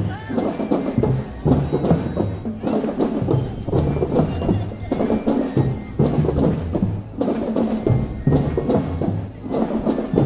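Marching drum band playing: drums and other percussion in a steady, driving rhythm.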